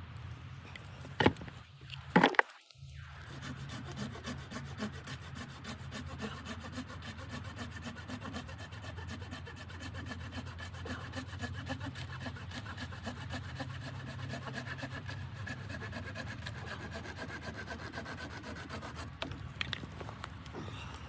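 A few sharp knocks, then a long run of steady, rapid rasping strokes, like something being sawn or rubbed.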